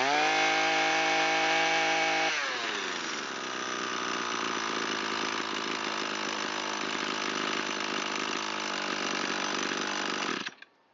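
Echo SRM225 string trimmer's two-stroke engine held at high revs, then dropping to a steady idle and shut off abruptly near the end. The long-stored engine is running and idling well after its carburetor mixture screw was opened fully, which the owner calls surprisingly good.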